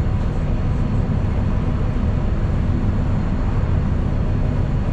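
Steady low rumble of a city bus heard from inside the passenger cabin while it drives: engine and road noise, unchanging throughout.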